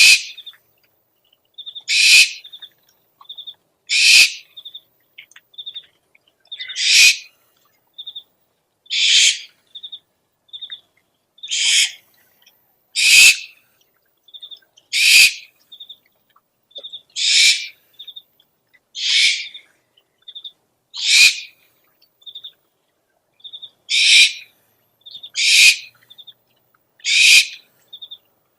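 Owl lure calls: a harsh screech about every two seconds, with short high pips between them.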